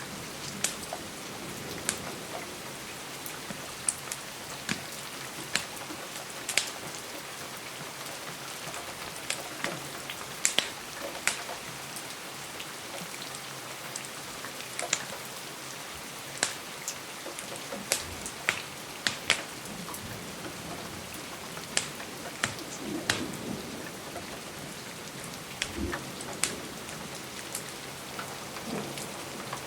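Steady rain falling, with irregular sharp crackles and pops from a wood fire, about one or two a second.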